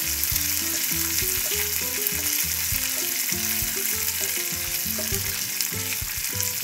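Cashews and raisins sizzling as they fry in ghee, stirred with a wooden spatula in a nonstick pan, with instrumental background music of changing notes underneath.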